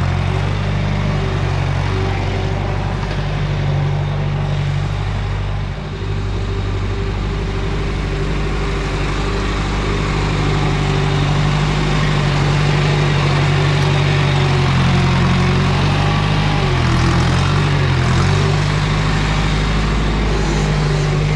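John Deere 2510 tractor engine running steadily, with the engine note wavering briefly about three-quarters of the way through.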